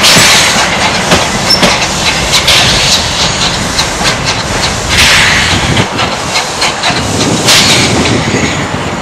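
Small locomotive and its train running along the track, the wheels clicking over the rail joints, with a couple of louder rushing swells about five and seven and a half seconds in.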